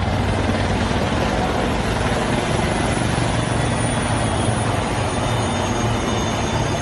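Military helicopters flying in formation: a steady, loud rotor chop and engine noise, with a high turbine whine growing near the end.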